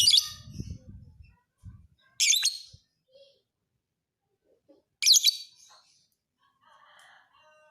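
Lovebird singing: three loud, shrill chattering bursts about two and a half seconds apart, each under a second long, with a low rumble beneath the first.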